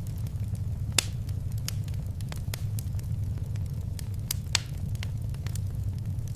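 Fireplace fire crackling: a steady low rumble of flames under scattered sharp pops and snaps. The two loudest pops come about a second in and about four and a half seconds in.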